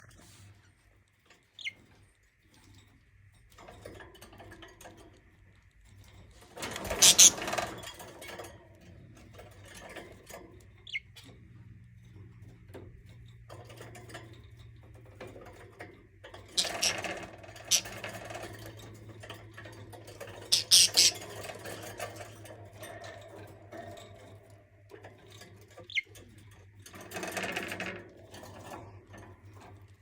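Budgie moving about at its cage, with four loud bursts of rapid scratching and rustling and a few single short chirps, over a low steady hum.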